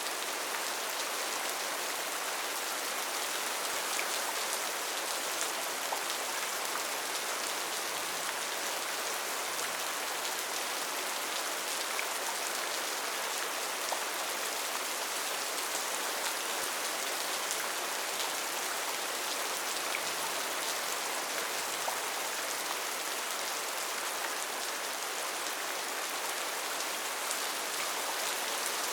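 Steady rain falling in a rainforest, a continuous hiss with scattered individual drops pattering on leaves and surfaces.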